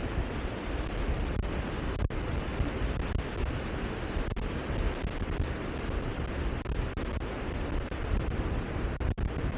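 Steady rushing outdoor noise, heaviest in a low rumble, with a brief dropout near the end.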